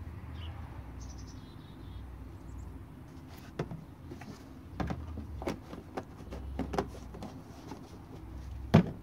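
Plastic oil bottles and a funnel being handled while engine oil is poured in: a run of irregular sharp clicks and knocks over a low steady rumble, the loudest knock near the end.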